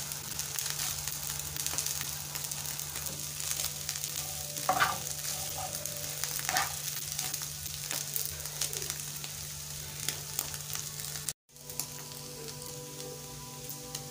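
Small dried omena fish frying in plenty of hot oil in a frying pan, with a steady sizzle and crackle, stirred with a spoon that knocks against the pan twice in the middle. The fish are being fried until crunchy.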